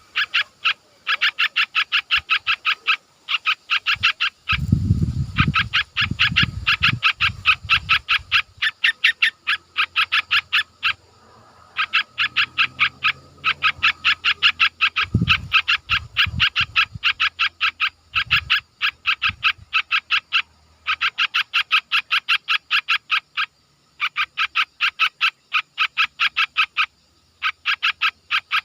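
An animal call made of rapid trains of short, high chirps, about six a second. The chirps come in runs of a few seconds with brief pauses between them. There are a few low, muffled rumbles about 5 and 15 seconds in.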